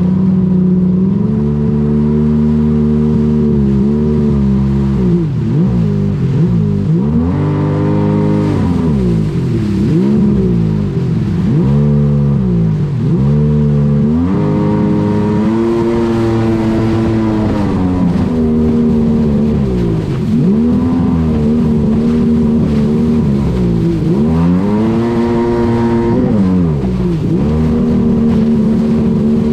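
Yamaha GP1200R jet ski's two-stroke three-cylinder engine running hard under way, its pitch dropping and climbing back again and again every few seconds as the throttle is eased off and reapplied.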